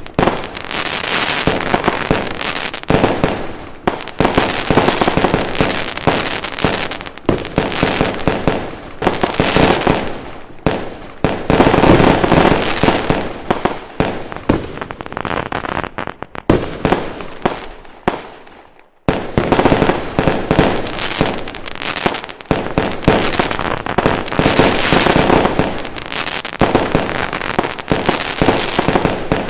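Fireworks going off in a dense, continuous barrage of bangs and crackling. The barrage dies down briefly about two-thirds of the way through, then starts again with a sharp bang.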